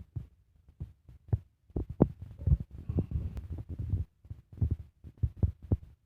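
A child eating close to the microphone: irregular short chewing and smacking sounds, a few of them sharp clicks.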